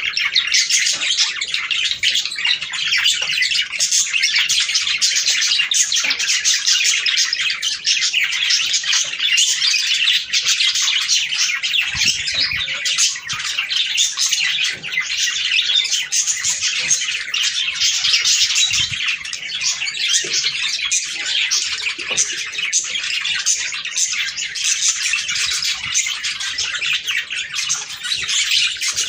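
A flock of budgerigars chattering and warbling, many high chirps overlapping in a dense, unbroken stream.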